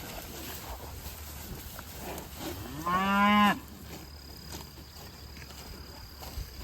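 A cow mooing once, about three seconds in: a short, loud call that slides up in pitch and then holds steady before cutting off.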